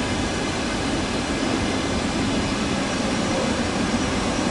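Steady rumble and hum of electric passenger trains in a station, with one train rolling slowly along a far track.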